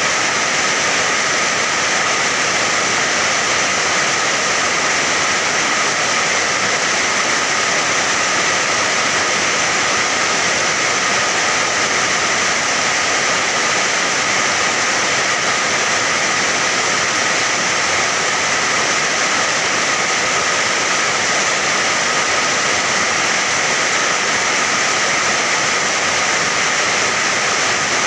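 Rain falling in a steady, even hiss, with no single drops, thunder or other sounds standing out.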